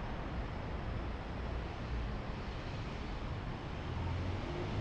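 Steady low rumble with a hiss: an idling vehicle engine.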